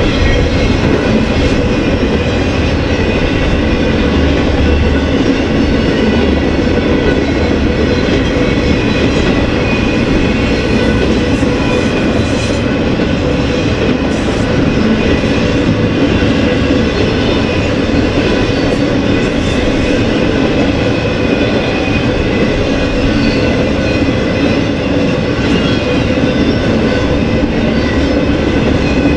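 BNSF freight train rolling past close by: a steady, loud running noise of wheels on the rail, with a light clickety-clack and steady ringing tones from the wheels.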